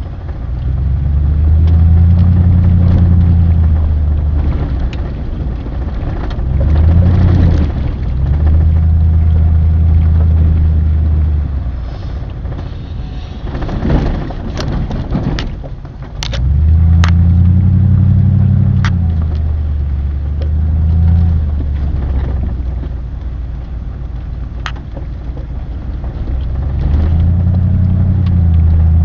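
A vehicle engine running, its pitch rising and falling several times as it speeds up and eases off, with a few sharp clicks and knocks in the middle.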